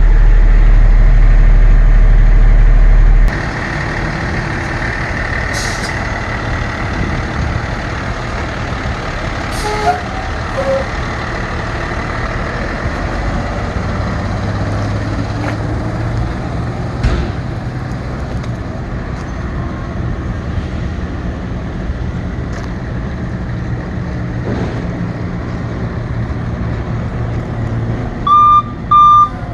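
Medium-duty utility truck engine running steadily, loud for about the first three seconds, then settling to a lower level with a few short clicks and hisses. Near the end a reversing alarm starts beeping in a steady on-off rhythm.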